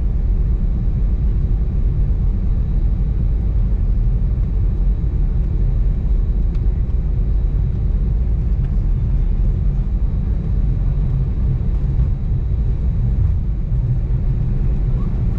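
Cabin noise aboard an Airbus A320neo on the ground just after landing: a steady low rumble with no change in pitch.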